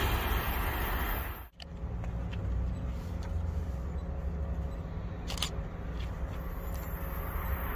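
The rumble of a passing train fading away, cut off abruptly about a second and a half in. A steady low rumble follows, with a few faint clicks about two-thirds of the way through.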